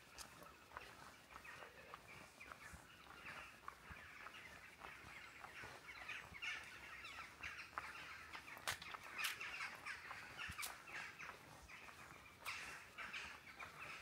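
Faint bird calls: a steady run of short, quick notes, with a few sharp clicks in the second half.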